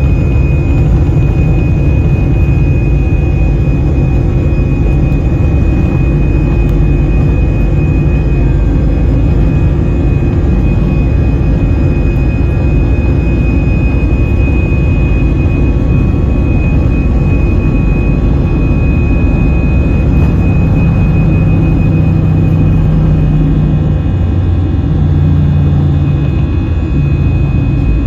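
Airbus A320-200 jet engines at takeoff power heard inside the passenger cabin: a loud, steady rumble with a high whine that fades out in the last few seconds.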